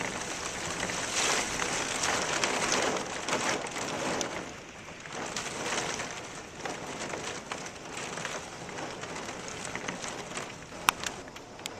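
Severe thunderstorm wind and rain: gusting noise that swells and eases, louder in the first few seconds, with a crackle of drops throughout and one sharp click about eleven seconds in.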